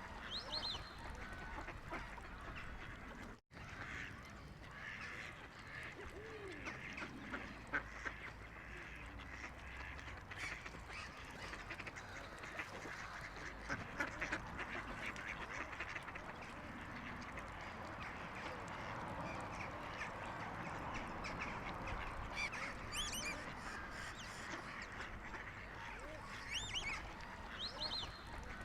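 Birds calling, many at once: a wetland chorus of waterbird calls and chatter, with high whistled calls just after the start and again near the end. The sound cuts out for an instant a few seconds in.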